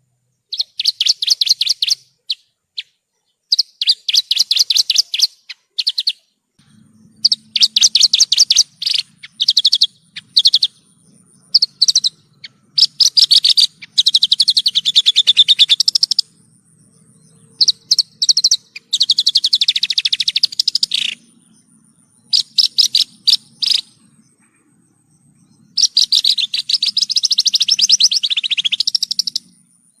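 Javan bush lark (branjangan) singing: rapid, high trilled phrases about a second or two long, repeated with short pauses, with a few longer runs of two to three seconds.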